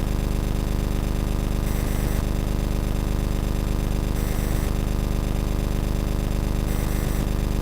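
Steady low buzzing hum with a stack of overtones under a constant hiss, picked up by the camcorder. A brief swell of high hiss recurs about every two and a half seconds.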